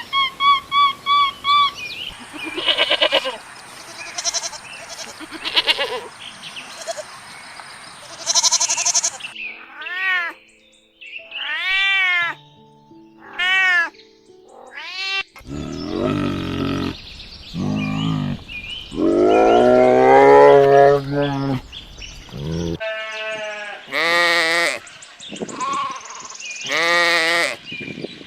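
Several different animals calling, one short recording after another. The calls are pitched, and the recording changes abruptly every few seconds: first rapid short chirps, then a run of repeated arching calls, then longer, lower calls.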